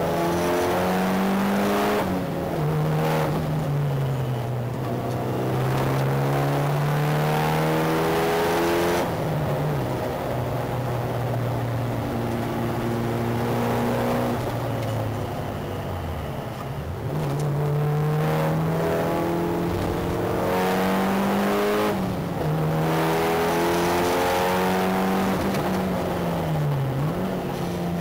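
Mitsubishi Lancer Evolution VI's turbocharged four-cylinder engine driven hard on a race circuit. Its pitch climbs through each gear and drops at the changes, with a deep fall about sixteen seconds in as the car slows for a corner. The engine note comes from outside at the front wheel arch and is mixed with a steady rush of wind and tyre noise.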